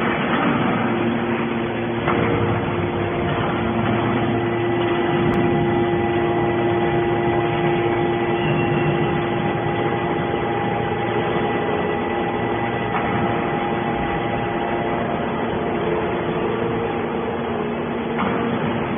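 Hydraulic scrap steel baler running: a steady machine hum with several held tones from its hydraulic power unit. The tone mix shifts slightly about two seconds in and again near the end.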